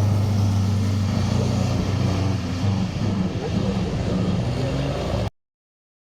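A vehicle engine running steadily with a deep, even hum and slight wavering in pitch. The sound cuts off abruptly about five seconds in.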